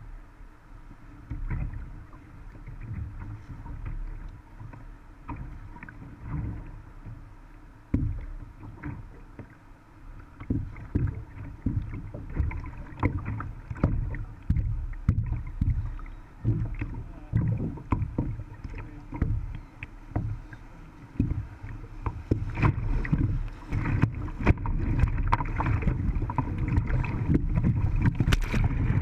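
Lifetime Lotus sit-on-top kayak being paddled down a creek: irregular knocks and splashes from the paddle and hull on the water, over a steady wash of moving water that grows louder and busier in the last several seconds.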